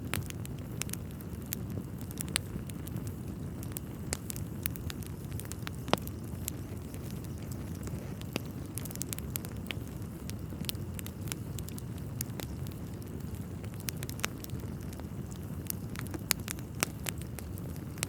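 Wood fire crackling in a fireplace: a steady low rumble of burning logs with frequent sharp pops and snaps, the loudest about six seconds in.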